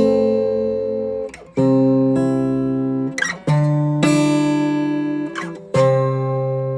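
Guitar music: slow strummed chords, each left to ring and fade before the next is struck about every one and a half seconds.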